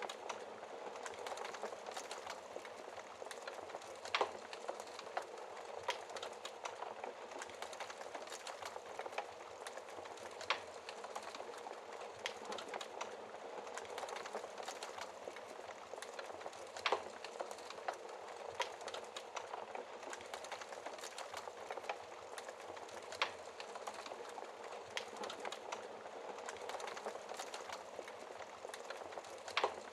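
Wood fire burning in a fireplace: a steady crackling hiss with irregular sharp pops and snaps, the loudest about 4, 10, 17 and 23 seconds in.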